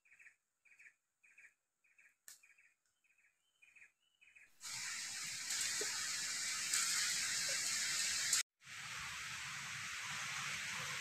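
A forest bird repeating one short high note about twice a second. About four and a half seconds in this gives way abruptly to a louder steady hiss of forest noise, which breaks off for a moment a few seconds later and then resumes.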